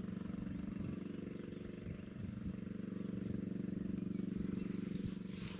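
A motor running steadily with a low, even drone. In the second half, a quick run of high chirps, about seven a second, sounds over it.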